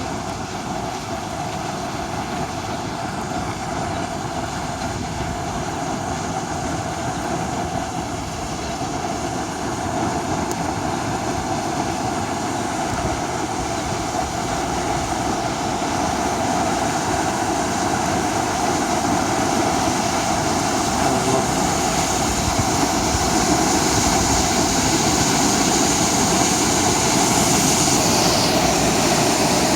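Floodwater rushing down a wadi at the start of a flash flood: a steady rush of water that grows gradually louder.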